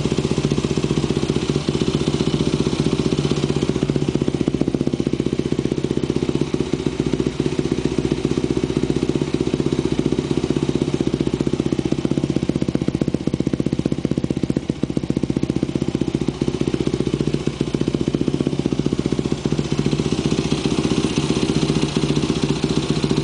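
Yamaha WR250F's four-stroke single-cylinder engine idling steadily through a White Brothers XCR exhaust with the silencer insert and spark arrestor removed; loud.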